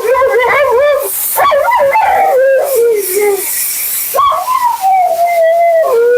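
Siberian husky howling and 'woo-woo' talking: two long, wavering calls that slide up and down in pitch, with a short break a little past halfway.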